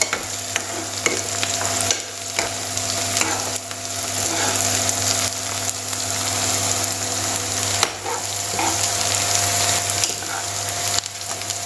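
Chopped onion, green chilli and garlic sizzling in hot oil in a kadai, turning lightly brown, with a metal spoon scraping and clicking against the pan as it is stirred. A faint steady hum runs underneath.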